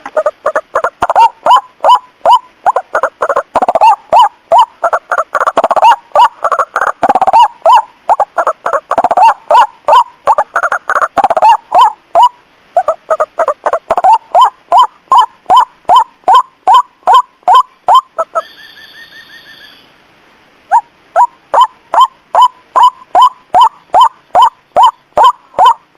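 White-breasted waterhen calls from a lure recording: a fast run of short, loud, repeated notes, about two or three a second, thick and overlapping in the first half. About two-thirds through, a brief break holds a single steady, slightly wavering higher note before the run starts again.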